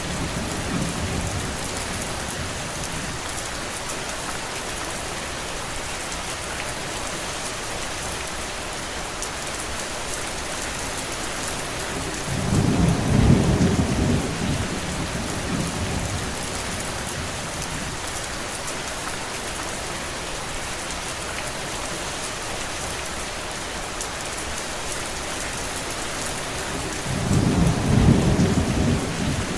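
Steady heavy rain falling. A low rumble swells up and fades twice, about 13 seconds in and again near the end.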